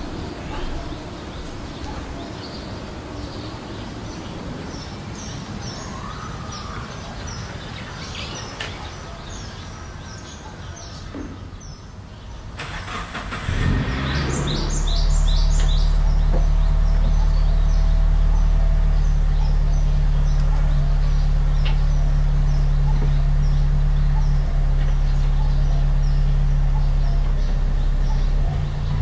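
Birds chirp over outdoor background noise. About halfway through, a vehicle engine starts and then idles steadily and loudly.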